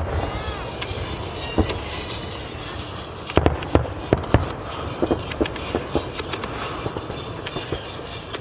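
Aerial fireworks going off: a steady rumble with scattered cracks and a quick run of four loud bangs a little over three seconds in.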